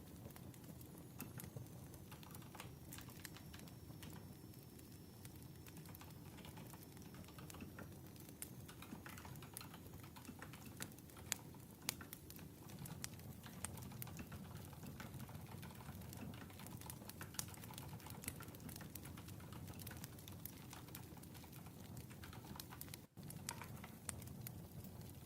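Crackling wood fire: irregular pops and snaps over a low, steady rumble, with two sharper cracks about eleven and twelve seconds in.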